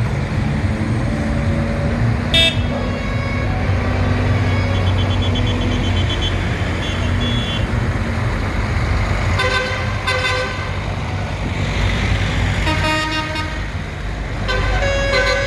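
Tractor engines running steadily as tractors pass, with horns tooting several times: a short blast early on, a pair of blasts midway, and more near the end.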